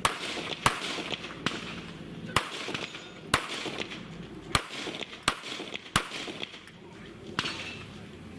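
Handgun shots, single and spaced unevenly, about eight over several seconds, with faint background chatter between them.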